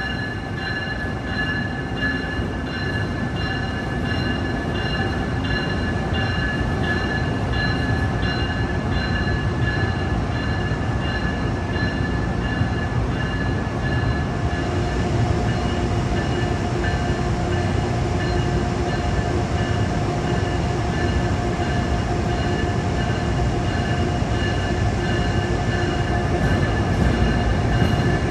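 Train moving through a station, with a low rumble and several steady high whining tones. The sound grows slowly louder, and a lower tone joins about halfway through.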